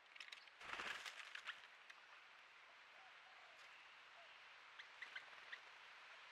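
Faint outdoor forest ambience with a steady hiss. There is a short burst of rustling noise and a few clicks under a second in, then a few faint, short bird chirps about five seconds in.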